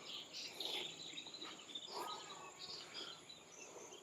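Faint forest ambience: a steady high-pitched insect drone with scattered short bird chirps, and a lower call about two seconds in.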